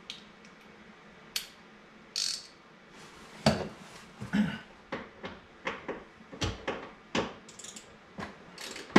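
Ratchet wrench with a T50 Torx bit loosening a seat mounting bolt in a 2015 Ford Mustang GT. A couple of isolated clicks are followed, from about a third of the way in, by irregular metallic clicks and clunks as the ratchet is worked.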